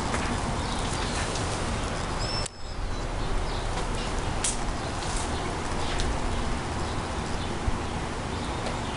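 Steady wind rushing, with a few faint clicks and one short high chirp about two seconds in.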